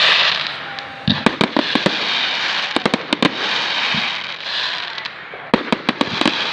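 Firework display finale: clusters of sharp bangs from bursting fireworks over a steady crackling hiss, with the heaviest volleys about a second in, around three seconds in and near the end.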